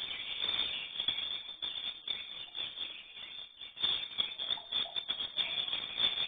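Edible-nest swiftlets chittering: a dense, rapid, rattling chatter of calls that keeps going with only brief breaks.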